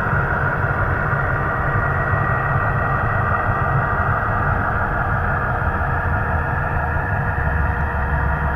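HO-scale model 422 Class diesel locomotive running on the layout with a steady, even, engine-like drone.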